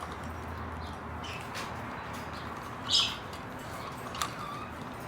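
Pet parrots giving short chirps and squawks, with one louder call about three seconds in and a sharp click a second later.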